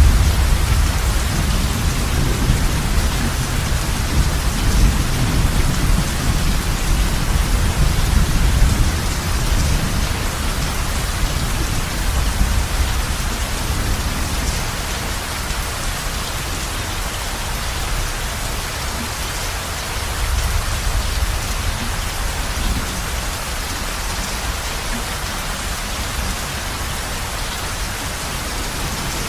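Heavy rain falling steadily on a roof. A low rumble of thunder underneath fades away over the first ten seconds or so.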